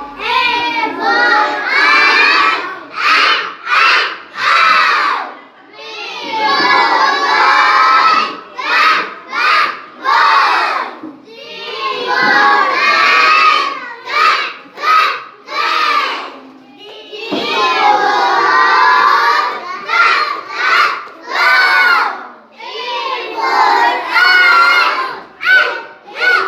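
A group of young children shouting together in chorus, in runs of short clipped syllables and longer drawn-out phrases, as in a class reciting aloud.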